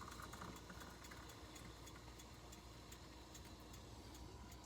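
Near silence: faint room tone with light, regular ticking.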